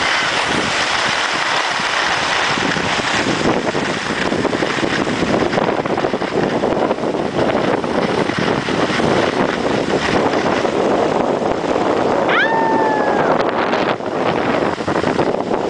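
Wind buffeting the camera microphone on a ski slope, a steady rough rushing that covers everything else. About twelve seconds in, a short high whistle-like call rises, holds and drops away.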